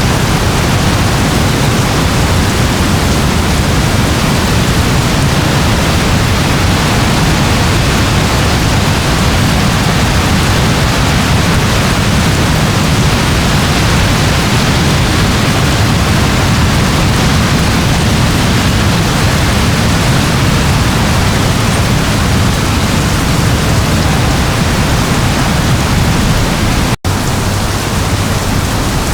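Steady rain: a loud, even hiss of falling rain with no breaks, except one instant where the sound cuts out near the end.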